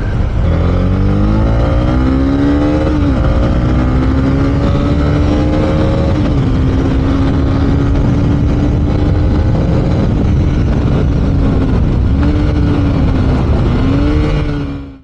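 Honda CB300R motorcycle engine accelerating through the gears: the engine note climbs twice, dropping at each upshift, then holds steady at speed, with two brief dips near the end before the sound cuts off abruptly.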